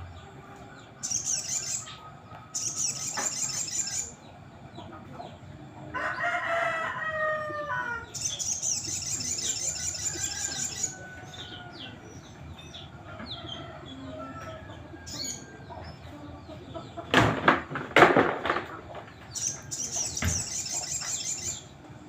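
A sogon (sogok ontong) songbird singing in several bursts of rapid high trills. A lower, falling crow-like call comes about six seconds in, and two loud thumps come near the end.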